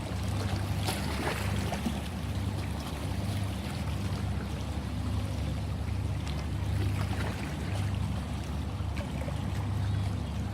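Ocean water sloshing and splashing, with small splashes scattered over a steady low rumble.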